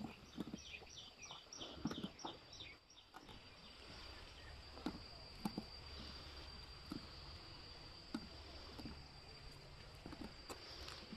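Quiet outdoor ambience in which a bird gives a quick series of short, falling chirps for the first few seconds, over a faint steady high tone and a few small scattered clicks.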